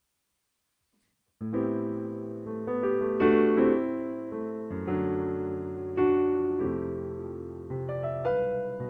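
Piano or electric keyboard starting about a second and a half in, playing a song's introduction in slow sustained chords, with a new chord about every second and a half.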